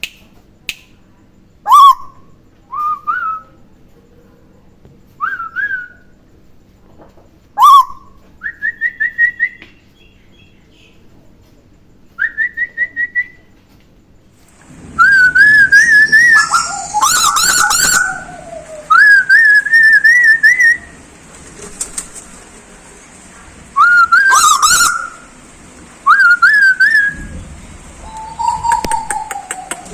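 A run of short whistled notes, most rising in pitch, in a whistling exchange between a person and a tuwu bird. From about halfway through the phrases come faster and louder over a steady high hiss, and a falling note sounds near the end.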